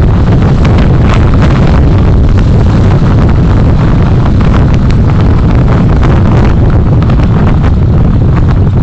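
Heavy wind buffeting the microphone of a moving vehicle's recorder: a loud, steady rumble with frequent small crackles, over the vehicle's road noise.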